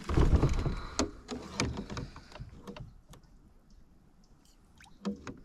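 Handling noise as a freshly landed pikeminnow and a treble-hooked lure are dealt with: a dense spell of knocks, rattles and rustling for the first two seconds or so, then scattered light clicks and a brief knock near the end.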